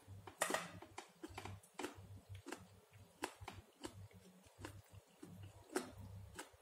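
Close-miked mouth sounds of eating a soft napa cabbage pancake: wet chewing with irregular lip smacks and clicks, the loudest about half a second in and again near the end.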